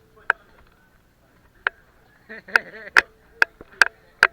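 Sharp, loud impacts, about seven of them at uneven intervals with the spacing tightening toward the end, and a brief voice in the middle.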